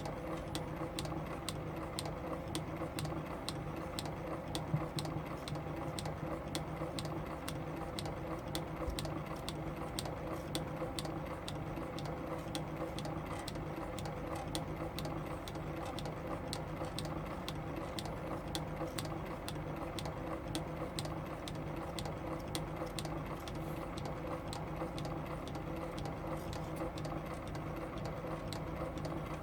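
8mm film projector running steadily: a mechanical whir and hum with regular light clicks, about two a second.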